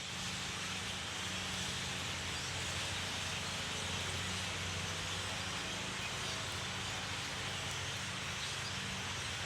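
A very large flock of birds calling all at once in the trees, a dense, unbroken chatter with no single call standing out. A steady low hum runs beneath it.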